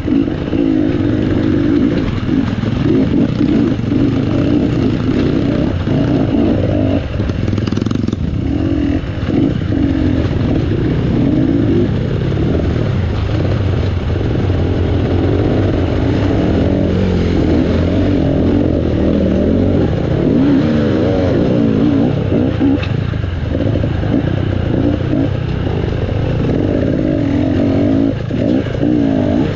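Off-road motorcycle engine running under load while being ridden, its pitch rising and falling constantly as the throttle is opened and closed.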